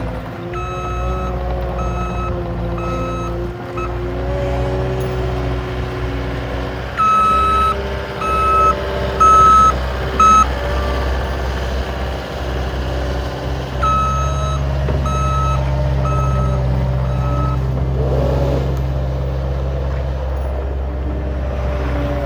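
CAT 279D3 compact track loader's diesel engine running steadily while its backup alarm beeps about once a second in three separate runs, each a few beeps long, as the machine reverses.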